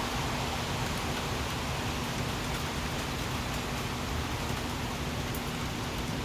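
Steady rain falling, an even hiss with no breaks, with a faint steady hum underneath.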